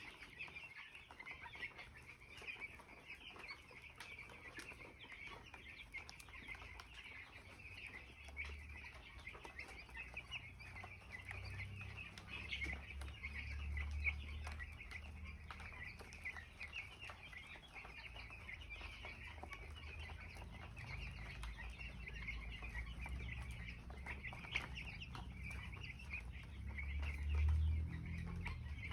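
A flock of 17-day-old poultry chicks peeping continuously, many short high chirps overlapping, with a low rumble that swells twice, most strongly near the end.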